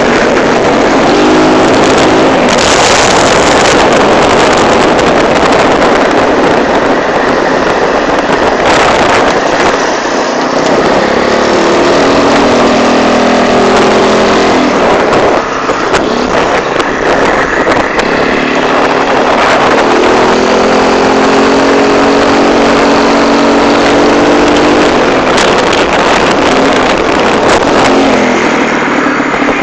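Yamaha BW's scooter engine running hard, loud throughout, its pitch rising and falling several times as the throttle is opened and eased.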